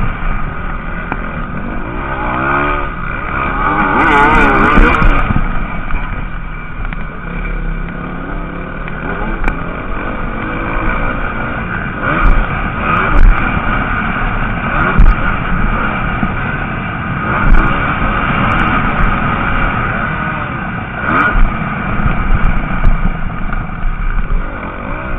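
Motocross bikes racing, engines revving up and down in wavering sweeps of pitch, loudest about two to five seconds in, with several short loud peaks later.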